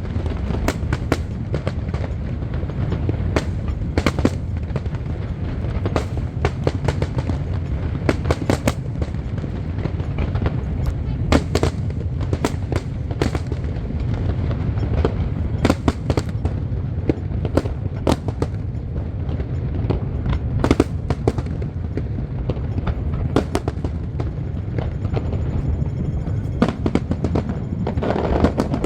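Aerial fireworks display going off nonstop: a continuous low rumble of bursts with frequent sharp bangs and crackles.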